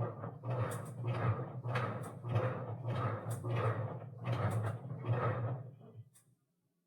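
Washing machine running a wash: repeated swishes of water and laundry sloshing, roughly twice a second, over a steady low hum, cutting off suddenly about six seconds in.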